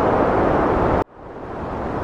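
Heavy wind noise, a dense steady rush that cuts off suddenly about a second in and fades back up quieter, where the loop restarts.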